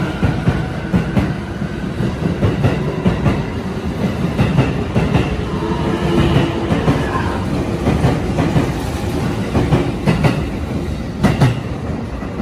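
JR East 255 series electric limited-express train rolling alongside the platform as it slows to a stop: a steady rumble with the regular clickety-clack of wheels over rail joints, and a short whine about halfway through.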